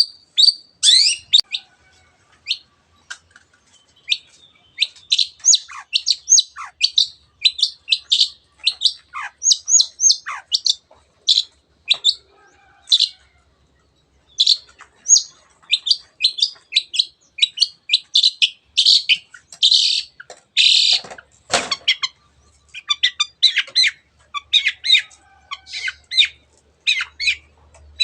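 Long-tailed shrike singing a fast, busy run of short sharp chirps, some sliding down in pitch, broken by a brief lull and one louder harsh note about two-thirds of the way through.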